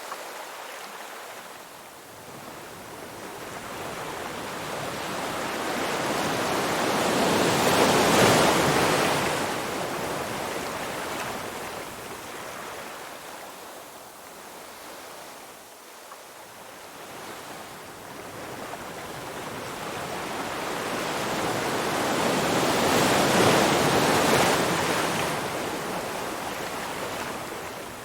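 Ocean surf: waves wash in twice, each building slowly over several seconds to a peak, about eight seconds in and again near the end, then fading away.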